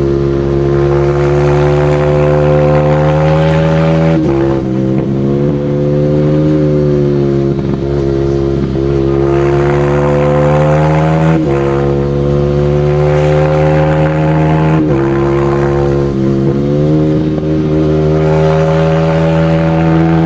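Single-cylinder supermoto motorcycle engine running hard under load, its pitch sliding up and down, with brief breaks and pitch drops about three times as gears change.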